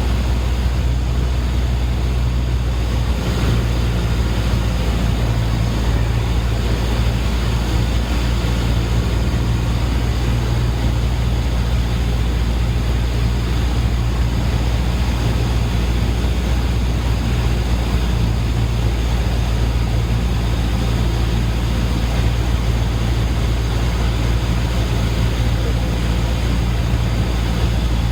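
Cessna 152's four-cylinder Lycoming O-235 engine and propeller droning steadily in flight, a constant low hum with a wide rushing noise over it.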